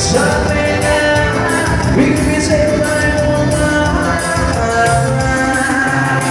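Live dance-band music with a steady beat and long held melody notes.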